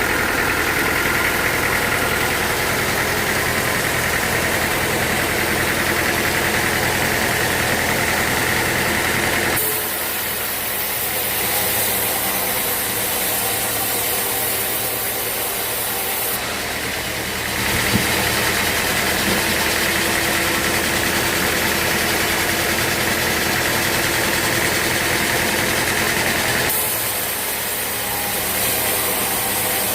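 Sawmill machinery running steadily: a motor hum with mechanical noise, its tone changing abruptly three times, and a single sharp knock about eighteen seconds in.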